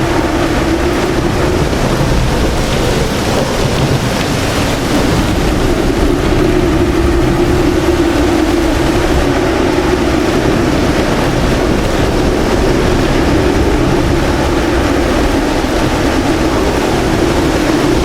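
Heavy rain and wind in a violent thunderstorm, a loud, steady rush with a low rumble underneath.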